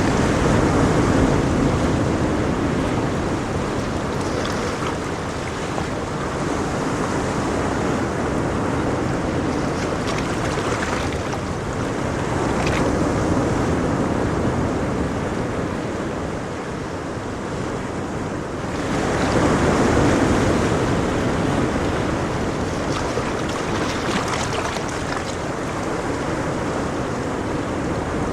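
Ocean waves breaking and washing on a shore in a continuous surf, swelling and easing every few seconds, with a stronger wave surging about two-thirds of the way through.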